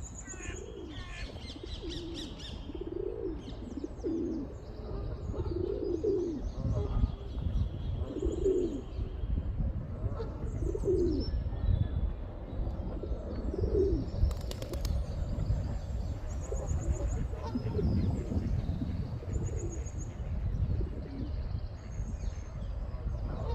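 Pigeons cooing in repeated low notes, with small birds chirping high and thin in the background.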